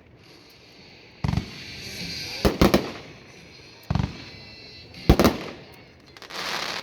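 Consumer aerial fireworks firing: twice a dull launch thump is followed about a second later by a sharp, doubled bang as the shot breaks overhead. Near the end comes a crackling hiss.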